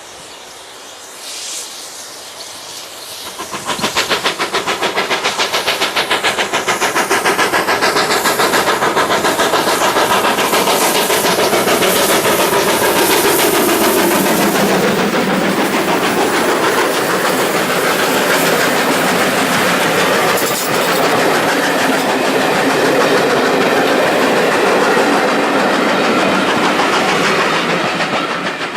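Steam train passing close by at speed. A loud rush of sound starts sharply about three and a half seconds in, with a fast, even rhythm and a steady clatter of wheels on the rails, then eases off near the end.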